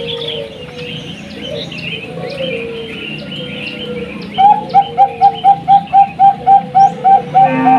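Zebra doves (Bangkok perkutut) cooing over a background of small birds chirping. About four seconds in, a loud run of short, evenly spaced coo notes starts, about four a second.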